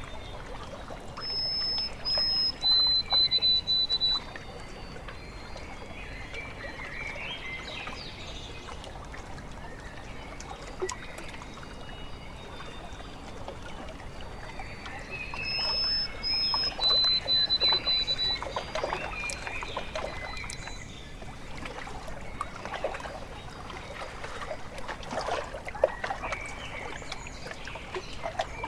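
Small waves lapping and trickling at a lake shore, with birds singing. One bird repeats the same phrase twice, about fourteen seconds apart: a high whistled note, then a slightly lower held one.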